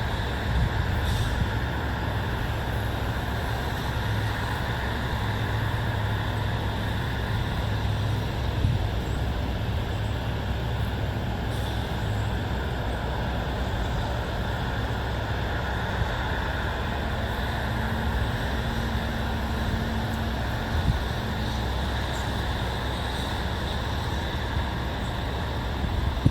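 Steady outdoor ambience of distant road traffic: a continuous low rumble with an even hiss above it, no single vehicle standing out.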